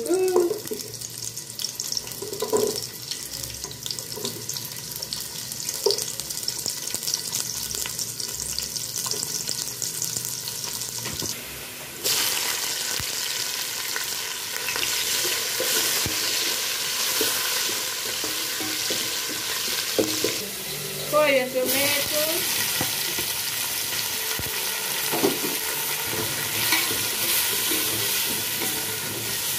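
Chopped onions, with green peppers and then tomatoes, sizzling in hot oil in an aluminium pot while a wooden spoon stirs and scrapes. The sizzle grows louder and fuller about twelve seconds in. A brief wavering tone cuts in about two-thirds of the way through.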